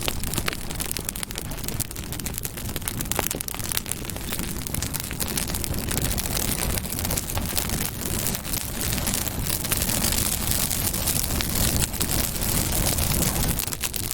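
Campfire burning, with dense crackling and popping of the wood over a low steady rush of flame.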